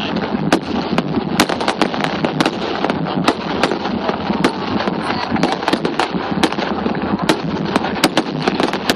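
Aerial fireworks display exploding continuously, many sharp bangs and cracks a second over a steady rumble of noise, with crowd noise beneath.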